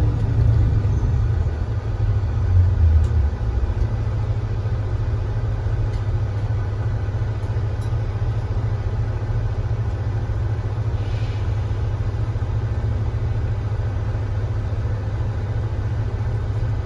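Engine of a 2025 Kia Granbird Sunshine coach running with a steady low rumble, swelling briefly louder about two to three seconds in before settling back to an even level.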